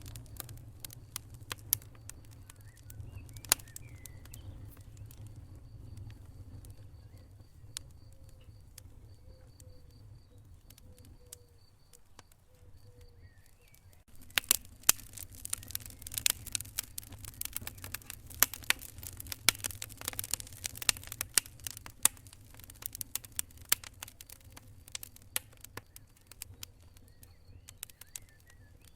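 Wood fire crackling with sharp pops over a low steady rumble. The crackling thins out for a while, then grows dense and louder about halfway through.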